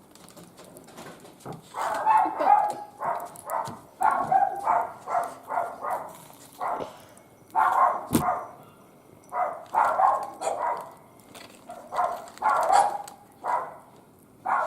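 A dog barking over and over in short runs, starting about two seconds in, with one sharp crack about eight seconds in.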